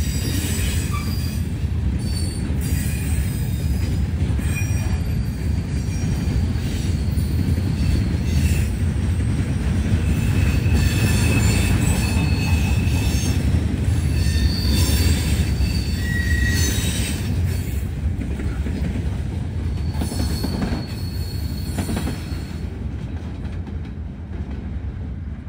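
Norfolk Southern freight train's cars rolling past with a steady low rumble and short, high wheel squeals. It grows a little quieter over the last few seconds.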